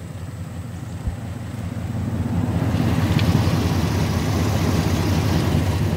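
A vehicle engine idling steadily, growing louder about two seconds in as the microphone moves in close under the front wheel well, with some rough wind and handling noise on the microphone.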